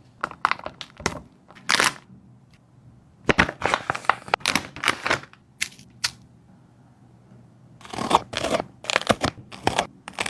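Dog eating close to the microphone: groups of wet crunching and tearing bites, with short pauses between.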